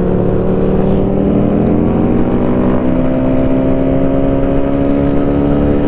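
Kawasaki Z125's single-cylinder engine running under way, its pitch climbing slowly and steadily as the motorcycle gathers speed.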